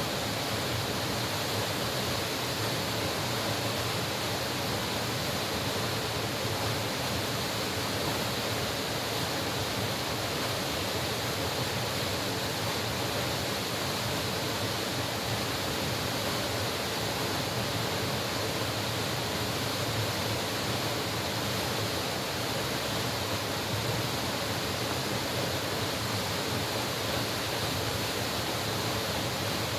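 Mountain stream water rushing steadily over rocks, an even, unbroken wash of sound.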